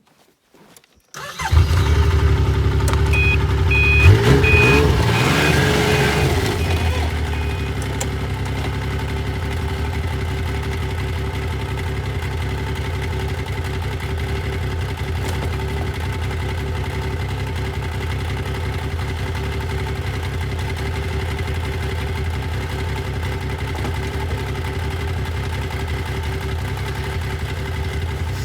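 Yamaha Viking snowmobile engine starting about a second in, revving briefly with a short run of beeps, then running at a steady idle.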